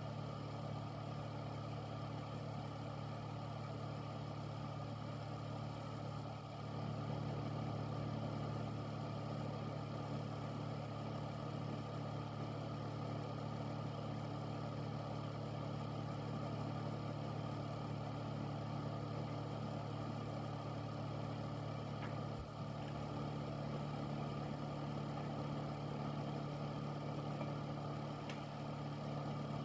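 Air filter's fan running steadily: a low hum over an even rush of air, growing slightly louder about seven seconds in.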